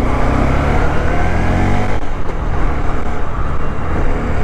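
Honda CB125 motorcycle's small single-cylinder four-stroke engine accelerating away, its note rising for about two seconds, dipping briefly at a gear change and rising again, with wind noise over the microphone.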